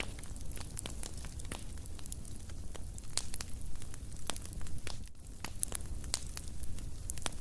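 Wood fire burning in a fireplace: irregular sharp crackles and pops over a steady low rumble and hiss.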